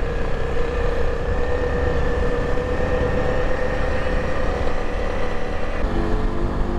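Motorcycle engine running steadily while riding, with wind rumble on the microphone; the engine note changes near the end.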